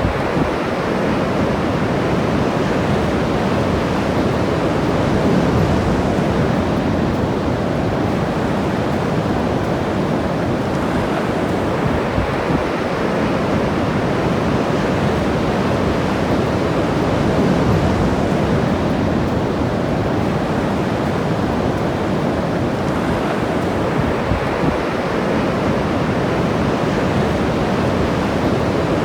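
Ocean surf washing onto the beach: a steady rushing of breaking waves that swells and eases gently every several seconds.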